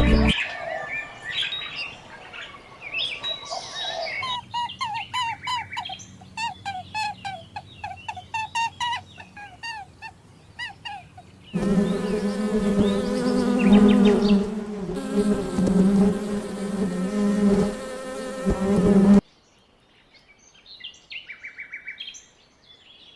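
Animal sounds in short cuts: quick, evenly repeated bird chirps, then a loud steady buzzing with a low hum that cuts off suddenly, then faint chirps.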